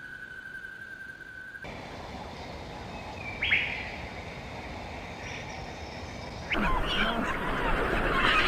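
Birds calling: a steady high whistle-like tone, then a single short call sweeping downward, then a loud, dense chorus of many overlapping chattering calls near the end.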